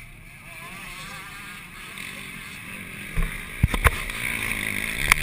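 Yamaha YZ125 two-stroke engine running fairly quietly, its pitch wavering, with a few sharp knocks in the second half.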